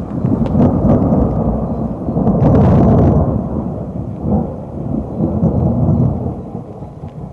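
Thunder rolling: a loud, deep rumble that swells and surges several times, then fades away near the end.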